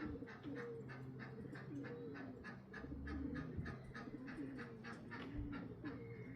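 Homing pigeons cooing, with a fast, even ticking of about four or five clicks a second behind them.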